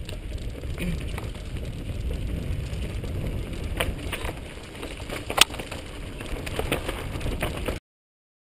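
Mountain bike rolling over a dirt trail, heard from a camera mounted on the bike: a steady low rumble from the tyres and frame with scattered gravel clicks and rattles, and one sharp click about five seconds in. The sound cuts out completely for most of a second near the end.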